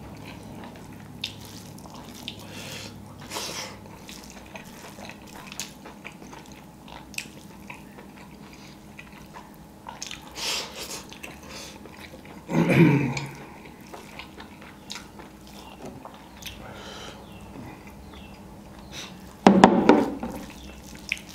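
Close-up chewing and wet lip-smacking of a person eating rice and chicken with his fingers, a steady run of small clicks and smacks. Two brief louder sounds stand out, about 13 and 20 seconds in.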